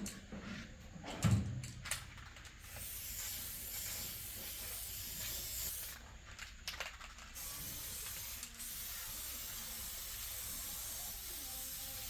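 A steady spraying hiss in two long runs with a short break about six seconds in, after a few clicks and knocks at the start.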